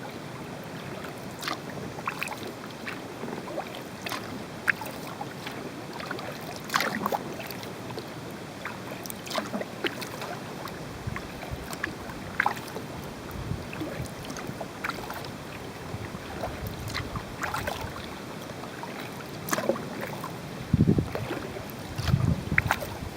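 Kayak paddling: the paddle blades dip, splash and drip in short, irregular ticks over a steady hiss. A few low bumps come near the end.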